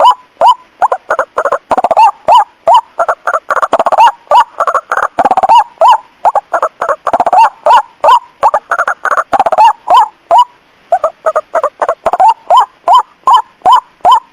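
White-breasted waterhen calls played as a bird-catching lure. Short notes hooking upward repeat rapidly, several voices overlapping for the first ten seconds or so, then settling into a single regular series of about three notes a second.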